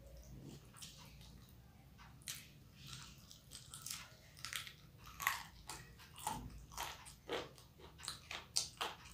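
Close-miked biting and chewing of a spicy chicken leg: wet mouth sounds and many short, sharp crackles at an uneven pace, growing more frequent from about two seconds in.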